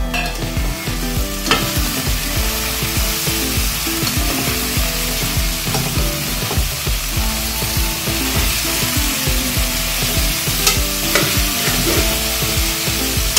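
Chopped onion and okra sizzling in hot oil in a metal pot, stirred with a slotted metal spatula that scrapes the pot and knocks against it a few times.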